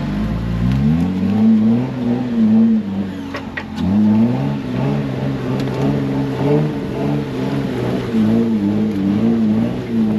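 Off-road 4x4's engine revving hard, its pitch rising and falling over and over as the throttle is worked, with a couple of sharp knocks about three and a half seconds in.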